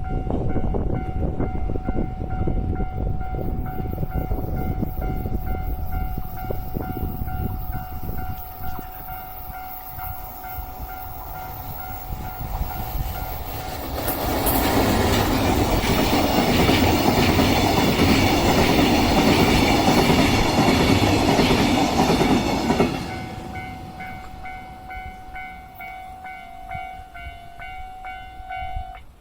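Railway level-crossing warning alarm sounding steadily while train wheels rumble over the rails. About fourteen seconds in, a train passes close by with a much louder rush and clatter for roughly nine seconds, then fades while the alarm keeps sounding.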